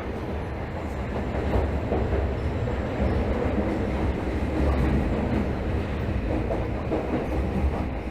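Tokyo Metro 13000 series subway car running, heard from inside the car: a steady low rumble of wheels on rail with some clickety-clack, a little louder in the middle.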